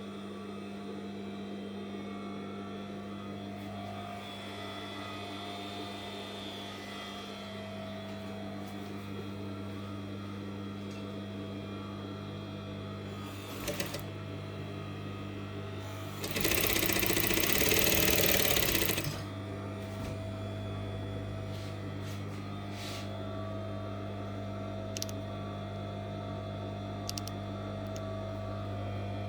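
Industrial Brother sewing machine with its motor humming steadily. About sixteen seconds in, the machine runs louder for about three seconds and then stops, with a few light clicks here and there.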